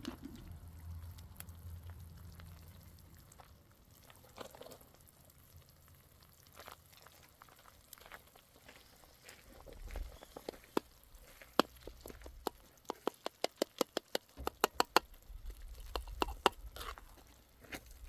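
Sharp taps and clicks of a cooking utensil against cookware, scattered at first, then a quick run of several taps a second for about four seconds past the middle.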